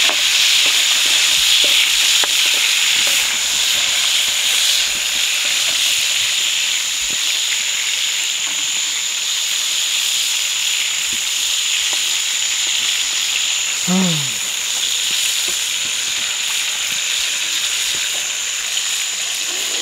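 Small freshwater chacalín shrimp frying in hot oil in a pan: a steady sizzle with light crackling.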